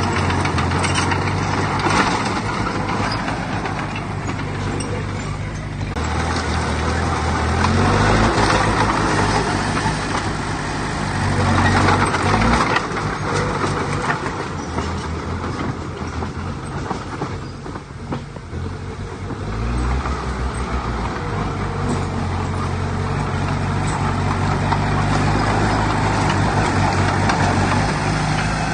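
Heavy diesel earthmoving machinery working: a deep engine note that steps up and down in revs several times, over a continuous noisy rush.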